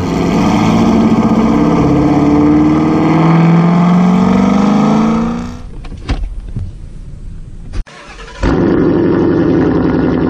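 Car engine running loud and accelerating, its pitch slowly rising, for about five seconds; it then cuts to a much quieter stretch with a couple of sharp clicks, and a car engine comes back in loud and steady a little after eight seconds in.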